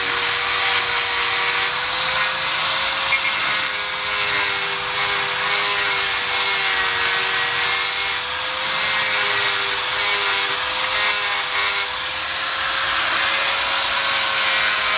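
A power tool motor running steadily, its pitch wavering slightly up and down.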